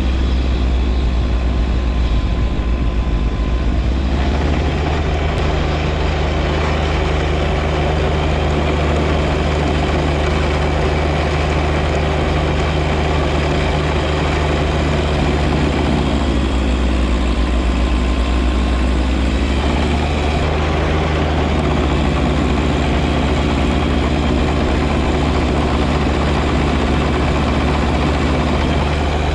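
John Deere 1025R compact tractor's three-cylinder diesel running steadily, driving a front-mounted 54-inch snow blower. The engine's tone shifts about four seconds in and again around the middle.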